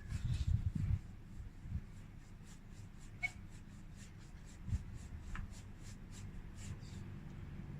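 Paintbrush working on paper in short quick strokes, about four a second, laying the last white highlights onto painted water. A few low thumps in the first second.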